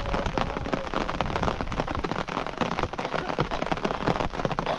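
Steady rain falling, with many close, sharp drop hits.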